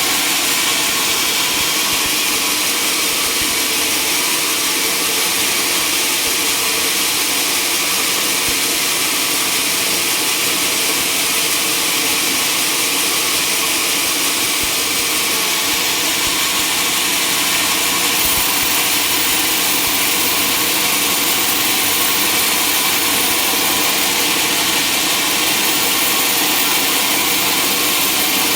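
Sawmill machinery running steadily, a loud unbroken mechanical noise with a strong hiss.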